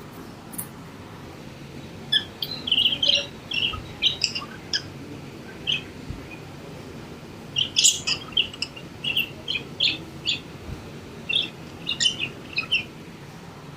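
Pet budgerigars giving short, high chirps in irregular clusters, with pauses of a second or two between them.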